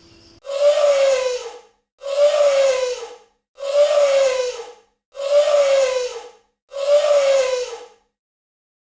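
Elephant trumpeting: the same call five times at even intervals, each about a second long with a slight fall in pitch.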